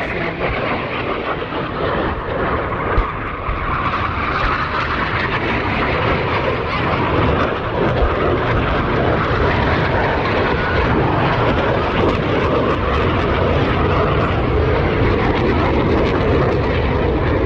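Military aircraft flying over an air show: a loud, steady engine noise that grows louder over the first few seconds and then holds.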